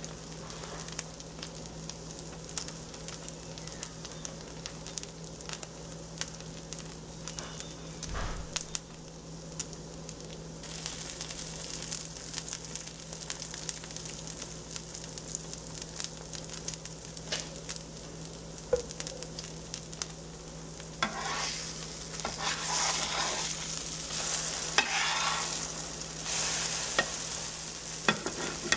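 Pancake batter frying in butter on a hot griddle, a steady sizzle with fine crackles and pops. The sizzle grows louder about ten seconds in and again about two-thirds of the way through, over a steady low hum.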